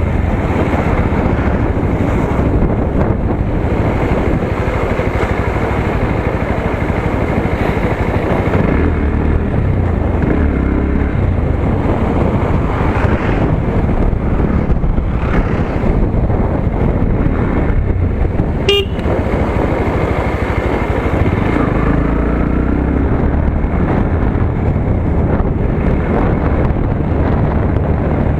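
Motorcycle engine running under way along a road, with steady road noise; a short sharp sound about two-thirds of the way through.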